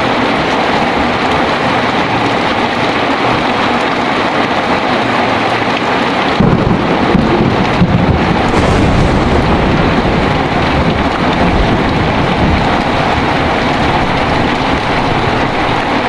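Heavy rain falling steadily, with a clap of thunder about six seconds in that cracks twice and rolls on as a deep rumble for several seconds.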